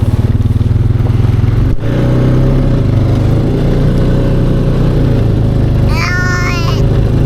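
Four-wheeler (ATV) engine running steadily, its note changing after a brief dip about two seconds in.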